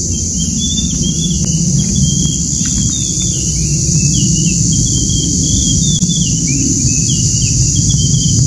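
Small birds chirping in a quick string of short calls, dying away near the end, over a steady high-pitched hiss and a louder low rumble.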